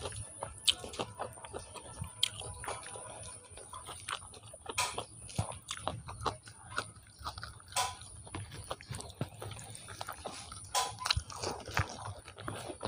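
Close-miked chewing of a mouthful of chicken biryani, with wet lip smacks and irregular mouth clicks.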